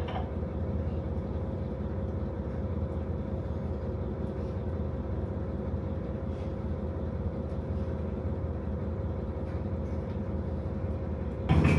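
KiHa 40 diesel railcar's engine idling steadily, heard from inside the cabin. Near the end the engine suddenly runs up louder as the train is about to move off again after emergency repairs to its damaged brakes.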